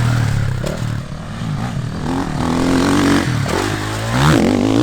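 Motocross bike engine revving hard and dropping back several times, its pitch rising and falling with the throttle as it is ridden round a dirt track.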